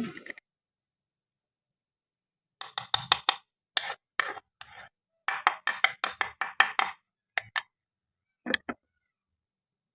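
Toy kitchen pieces of plastic and wood being handled, cut and set down: a quick run of clicks and clatters, then two single knocks.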